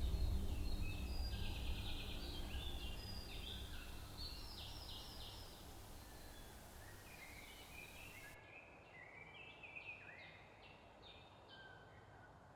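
Birds singing in many short chirps and trills, while a low synth drone fades out over the first several seconds.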